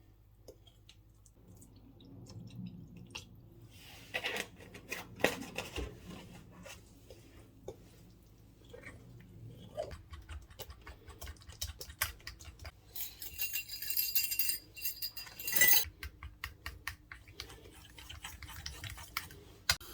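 Kitchen handling sounds: dishes and utensils clinking and tapping at irregular intervals, with a few seconds of rustling hiss a little past the middle.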